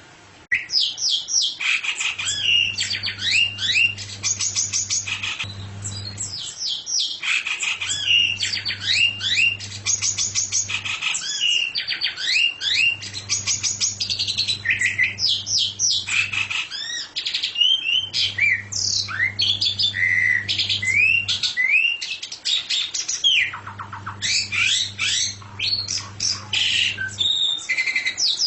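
Songbird singing a fast, continuous chattering song of rapid downward-sweeping chirps, broken by short pauses.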